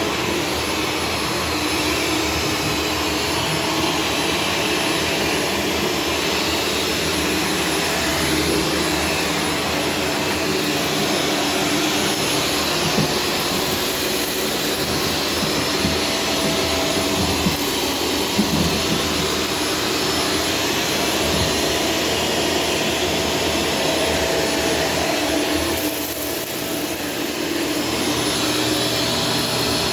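Corded Shark Stratos vacuum cleaner running steadily, a rushing air noise with a few steady whining tones over it; it dips briefly in level a little before the end.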